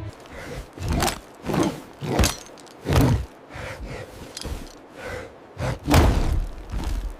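A series of about eight dull thumps at irregular intervals, the loudest about three and six seconds in.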